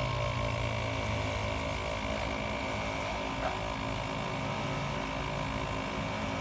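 ARB dual air compressor running steadily, pumping up a Jeep tire from low pressure, with a brief faint click about halfway through.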